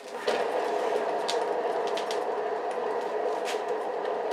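Painting turntable spinning the canvas, giving a steady whir that starts just after the beginning and holds at an even level.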